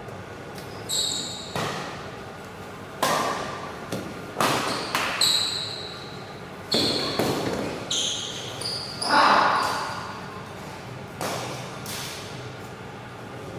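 Badminton rally: sharp racket hits on the shuttlecock at irregular intervals, about ten in all, with short high squeaks of shoes on the court floor, echoing in a large hall.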